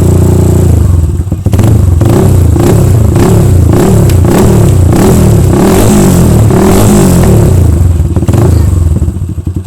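Yamaha Scorpio's single-cylinder four-stroke engine through an HNR H3 Long racing exhaust, loud: idling, then blipped repeatedly, the revs rising and falling in quick succession for several seconds, before dropping back to a lumpy idle near the end.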